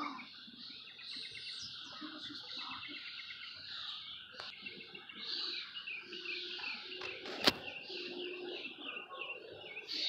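Small songbirds chirping in quick, overlapping calls throughout, with a sharp click about seven and a half seconds in.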